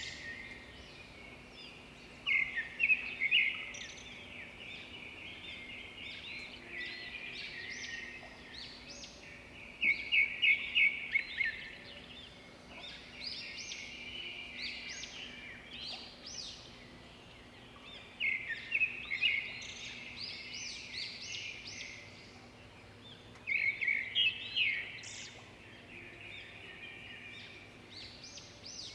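Birds singing: one bird repeats a loud burst of rapid chirping notes four times, several seconds apart, over steady fainter chirping from other birds.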